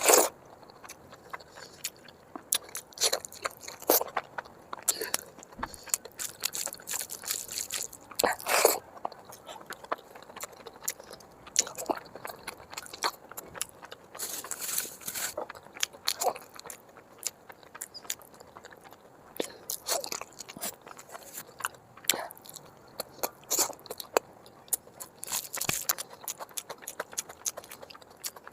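Close-miked eating: wet chewing and smacking of mutton curry and rice, with irregular clicks and a few louder mouthfuls.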